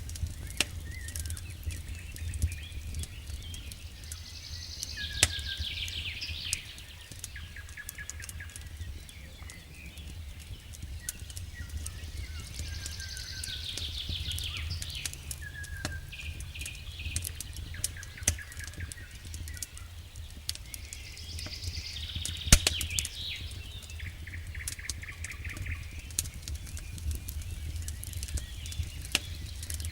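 Wood fire crackling in a fireplace: frequent sharp pops and snaps over a steady low rumble. High chirping trills come and go every few seconds.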